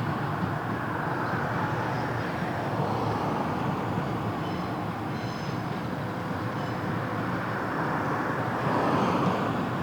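Freight train running past on the rails: a steady rumble of wheels and cars, with faint high thin tones from the wheels and a slight swell near the end.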